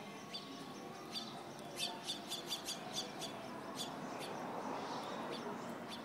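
Small birds chirping: scattered short, sharp chirps, with a quick run of about six a little under two seconds in.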